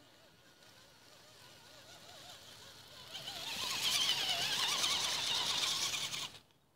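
Radio-controlled truck's motor whining, its pitch wavering up and down with the throttle and growing much louder about three seconds in, then cutting off abruptly near the end.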